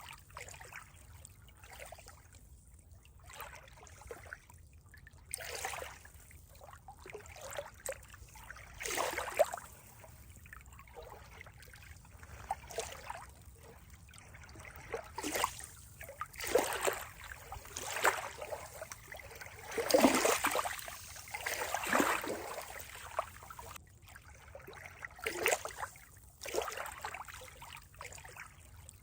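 Water trickling and splashing in irregular spurts, loudest about two-thirds of the way through.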